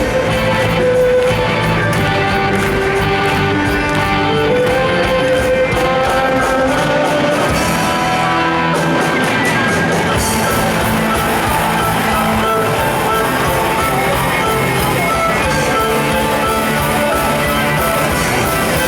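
A live band playing rock music: electric guitar over drums with a steady ticking cymbal beat, and a sustained melody line.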